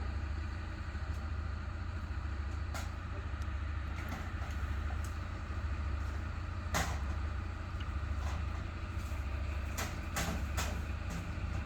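Fire truck engine idling with a steady low rumble, while a few sharp knocks sound over it, the loudest about seven seconds in and a quick cluster of three near the end.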